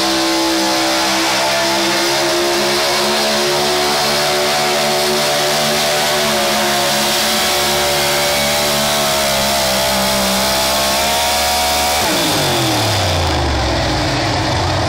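A competition pulling vehicle's engine running loud at high revs under load down the track. About twelve seconds in the pitch falls steadily as it comes off the throttle at the end of the pull.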